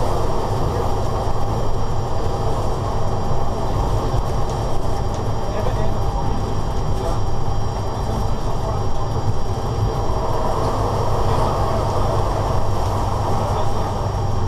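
Steady running noise inside a moving locomotive cab: wheels on rail with a low hum underneath and a few faint, thin high tones, unchanging throughout.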